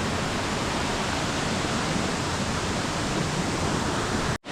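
Waterfall water rushing in a steady, unbroken roar of white noise. It cuts out abruptly for an instant near the end.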